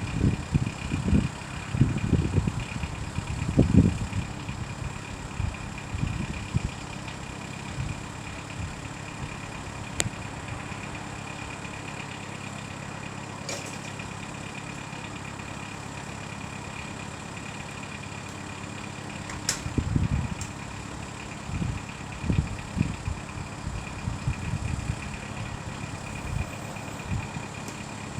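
Class 350 Desiro electric multiple unit at the platform, a steady electrical hum made of several fixed tones. Low rumbling surges come in the first few seconds and again from about twenty seconds in, with a few sharp clicks between.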